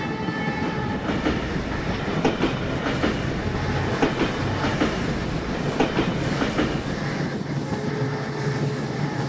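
Train running on the track, heard from aboard a coach: a steady rumble with wheels clacking over rail joints at uneven intervals.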